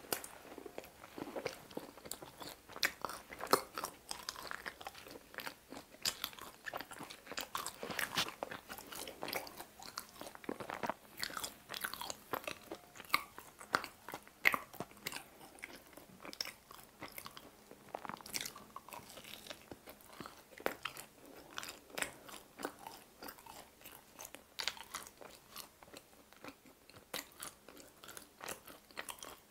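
Close-miked biting and chewing of sauce-dipped pizza crust, a steady run of crisp crunches and small irregular mouth clicks.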